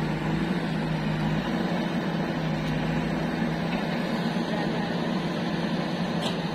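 Heavy diesel engine running steadily at an even speed, a constant low hum.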